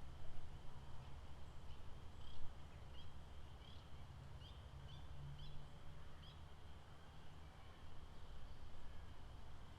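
Lakeside park ambience: a steady low rumble under a thin steady high hum, with a run of about nine short high chirps from roughly two to six seconds in.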